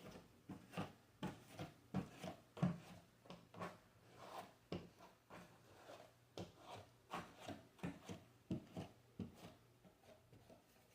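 Short rubbing or scraping strokes of a hand tool on a drywall patch, coming irregularly about one or two a second.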